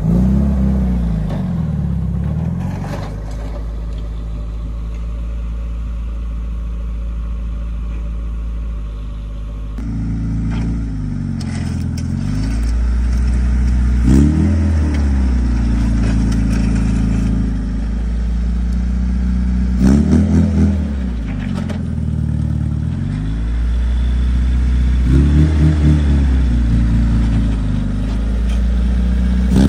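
A lowered Mitsubishi coupe's engine running and being revved several times, each rev rising and falling in pitch.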